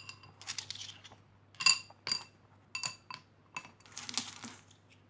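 Decorative stones dropped by hand into a small tabletop fountain's basin, landing in a series of sharp clinks that ring briefly, with a denser rattle of stones about four seconds in.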